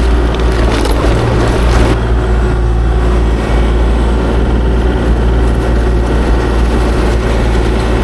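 Kubota KX040-4 mini excavator's diesel engine running steadily with a deep hum, with a gritty clatter over it for the first two seconds that then dies away.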